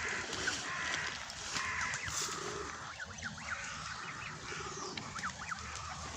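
Pigeons cooing with short pulsed calls every second or two, mixed with short, high, rising peeps from goslings.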